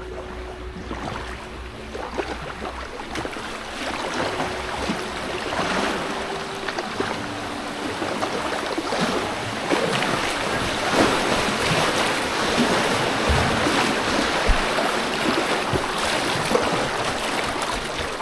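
River water rushing and splashing around a packraft, growing louder over the first half.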